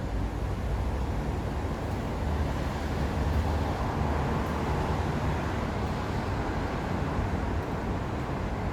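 Steady low rumble of vehicle noise, swelling slightly a few seconds in and easing again.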